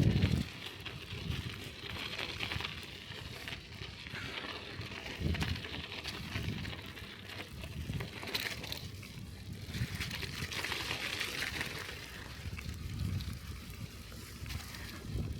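Bicycle rolling through snow and slush: tyres hissing, with wind rumbling on the microphone.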